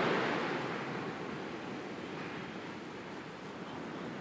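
Sea waves washing on the shore: the surge fades steadily as a wave draws back, and the next begins to build near the end.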